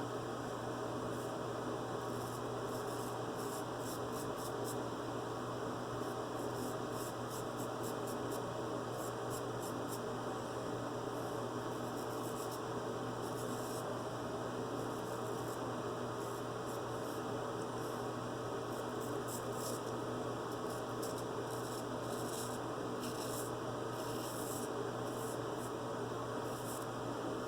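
Vintage Joseph Allen and Sons straight razor scraping through lathered stubble in many short, irregular strokes, each a crisp rasp, over a steady low hum.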